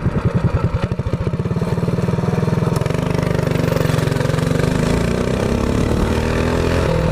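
Mini bike's small gas engine running, its firing pulses slow at first, then quickening and rising in pitch about two to three seconds in as it is given throttle.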